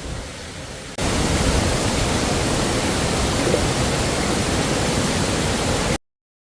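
Waterfall rushing: an even roar of falling water that starts abruptly about a second in and cuts off to silence near the end.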